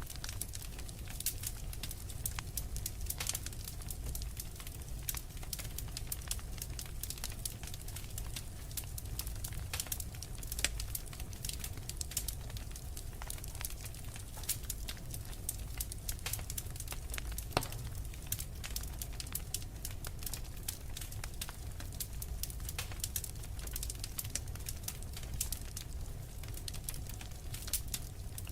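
Wood fire crackling in a fireplace: a dense, irregular run of sharp pops and snaps over a steady low rumble of the burning fire.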